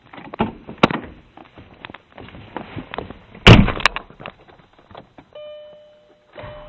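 Clicks and knocks of someone handling a car, then a car door shut with a loud thud about halfway through. Near the end, a steady electronic chime tone sounds for under a second.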